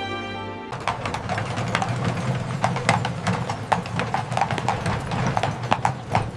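Horse hooves clip-clopping at a walk, about three steps a second over a low rumble, starting just after a strain of music cuts off.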